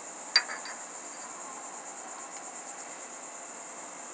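Crickets trilling steadily, with one sharp metallic clink that rings briefly about a third of a second in.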